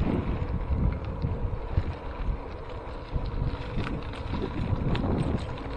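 Wind buffeting the microphone of a camera riding along on a moving bicycle. The wind gusts up and down, with a few faint ticks.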